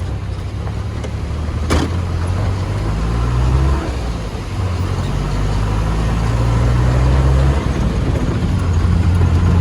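Vehicle engine running under load while driving, its pitch rising and then falling back twice, about four seconds in and again about seven and a half seconds in, as with gear changes. A sharp click about two seconds in.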